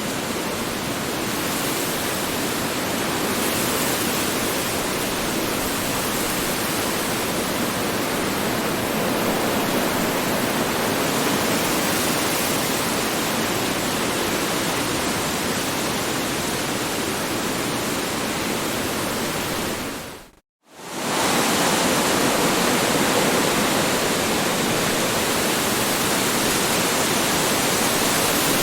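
Strong wind blowing: a steady rushing noise with slight swells. About two-thirds of the way through it drops out to silence for a moment and fades back in.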